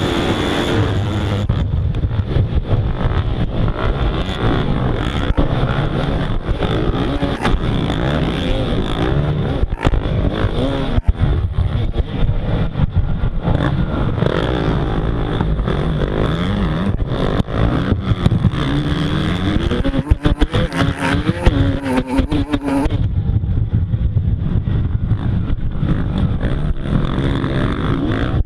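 Motocross bike engine revving up and down over and over under hard riding, with frequent knocks and clatter.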